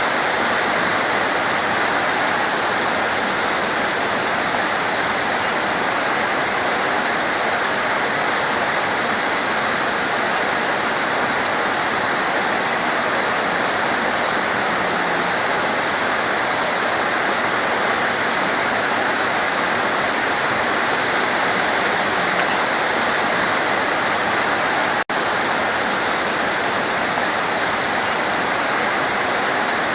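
Torrential rain falling steadily as a dense, even hiss. About 25 seconds in, the sound cuts out for an instant.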